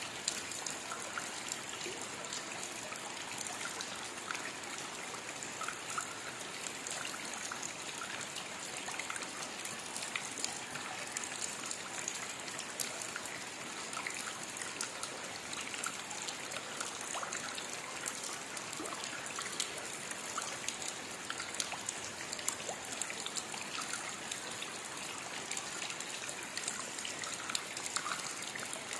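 Steady rainfall: an even hiss of rain with many small drop ticks scattered all through it.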